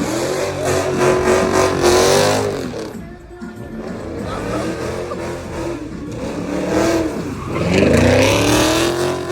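Car engine revving hard in two surges of rising pitch, one at the start and one near the end, with the engine running lower between them.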